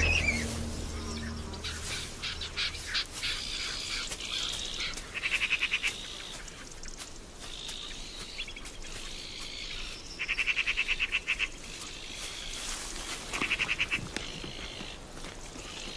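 Wild birds chirping and calling, with three rapid trills of about ten notes a second among the shorter chirps.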